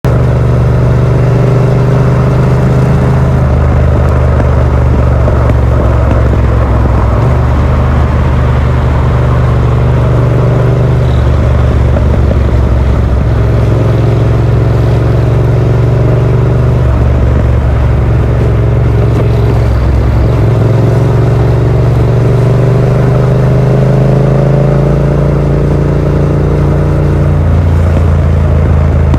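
Yamaha MT-07's 689 cc parallel-twin engine running through a Yoshimura R77 exhaust with the dB killer fitted. The engine note is loud and steps up and down in pitch every few seconds as the revs change.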